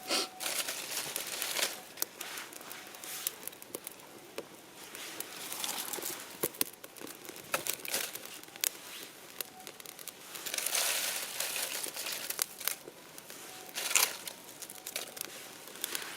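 Irregular crinkling and rustling of something being handled and crumpled, with scattered sharp clicks and a longer burst of rustling about eleven seconds in.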